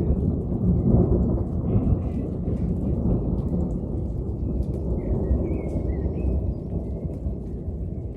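Continuous rolling thunder, a deep rumble that swells in the first couple of seconds and then eases off slowly without stopping. Birds chirp briefly now and then above it.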